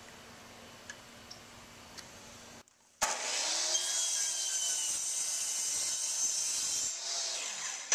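Electric power saw cutting a 45-degree angle through a wooden piece. It starts loud about three seconds in, with a shifting pitch as the blade goes through the wood, and winds down near the end. Before that there is only a faint steady hum.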